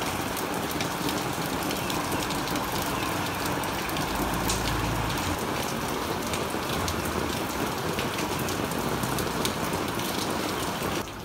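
Steady rain in a storm, with scattered sharp ticks of drops striking close by.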